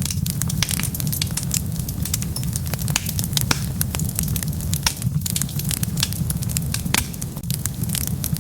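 Wood fire burning, with a steady low rumble of the flames and dense, irregular crackles and pops from the burning logs, a few sharper pops standing out.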